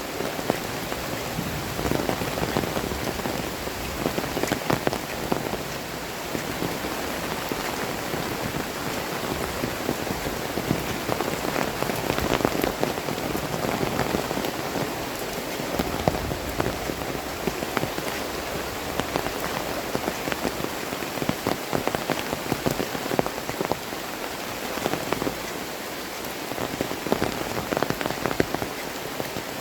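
Heavy tropical rain pouring steadily, with many sharp, close drop impacts spattering throughout.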